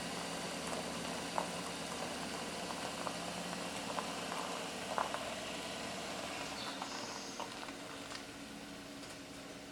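A vehicle engine idling with a steady low hum and a few light clicks. It grows quieter over the last few seconds.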